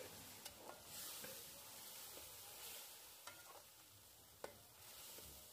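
Faint sizzle of thin vermicelli roasting in an aluminium pan while a metal slotted spatula stirs it, with a few short clicks and scrapes of the spatula against the pan.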